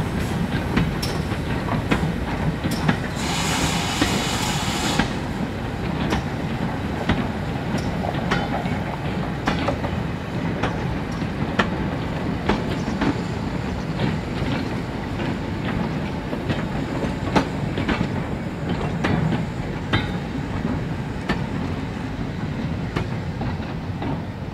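Four-wheeled goods wagons and a brake van rolling past on jointed track, wheels clicking over the rail joints over a steady low rumble. A brief harsh high-pitched noise sounds about three seconds in.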